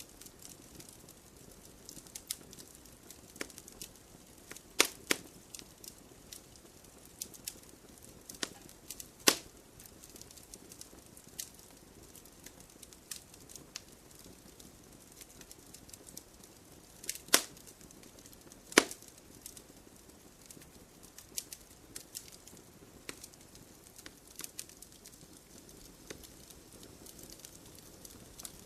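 Wood campfire crackling: irregular sharp pops and snaps over a soft steady hiss of burning, with a few louder pops about 5, 9, 17 and 19 seconds in.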